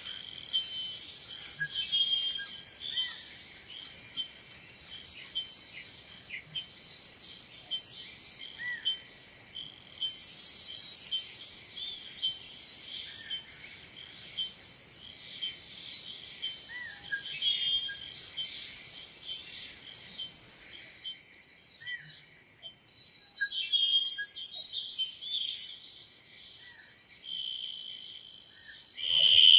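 Cicada calling: a male's tymbals producing a high, buzzy call in short pulses that repeat about three times every two seconds. Near the end the pulses fade, and a steady unbroken buzz starts right at the close.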